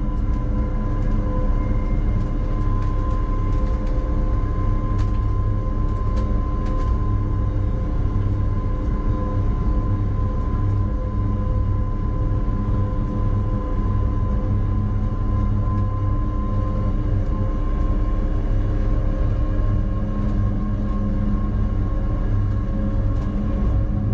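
A train running on rails: a steady low rumble with a held hum over it and faint light ticks.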